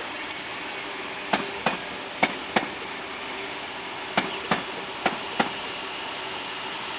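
Tangara electric train rolling past, its wheels clacking over rail joints in quick pairs, clack-clack, pause, clack-clack, over a steady rolling rumble.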